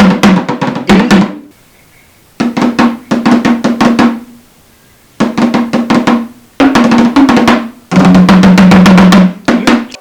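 Drums playing rapid rolls in a string of bursts, each one to two seconds long, with short pauses between them.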